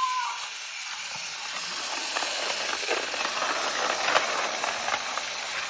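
Battery-powered TOMY toy train engines running on plastic track: small motors whirring with a hissing rattle, with scattered light clicks.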